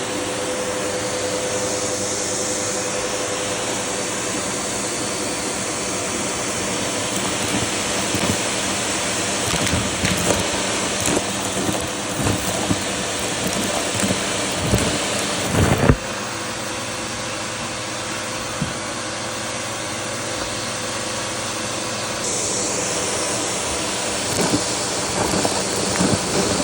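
Vacuum cleaner running with its hose open: a steady rush of air with a faint whine. Scattered knocks and rattles come in the middle, and the tone shifts suddenly about 16 seconds in and again about 22 seconds in.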